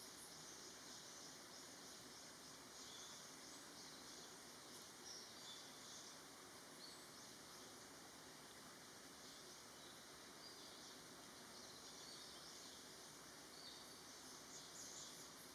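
Quiet outdoor ambience: a faint steady hiss with scattered short, high-pitched chirps in the distance.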